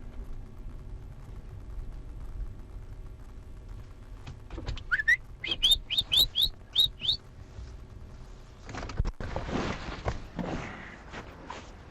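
A quick run of about eight short, loud rising whistles, roughly three a second, followed by a couple of seconds of rushing noise.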